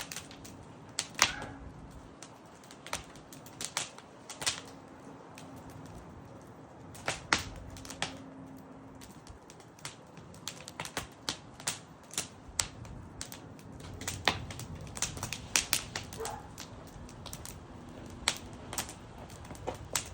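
Campfire wood crackling, with irregular sharp pops and snaps, several in quick clusters.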